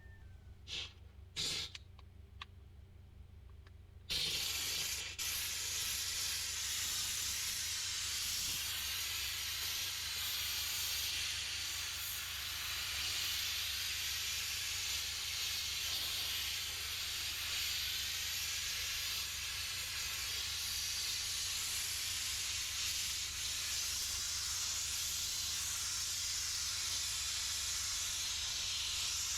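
Steam cleaner jetting steam: after a couple of short clicks, a steady hiss starts suddenly about four seconds in and keeps going.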